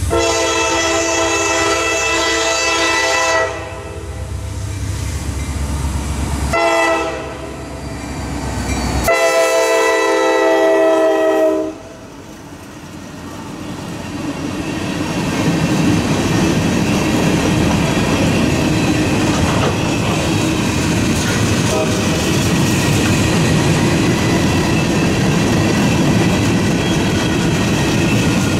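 Locomotive air horn sounding a long, a short and a long blast, the close of the grade-crossing signal, over the rumble of the locomotive's diesel engine. Then the train rolls by with a steady noise of wheels on rails that builds up after the last blast and holds.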